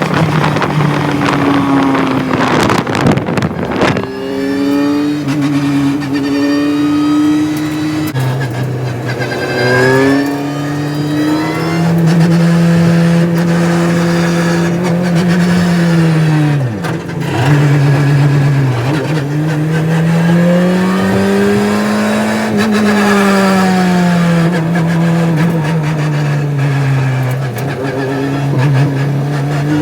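Rally car engine running hard. Its pitch climbs and drops back again and again through gear changes and lifts off the throttle. A short rush of noise comes about three seconds in.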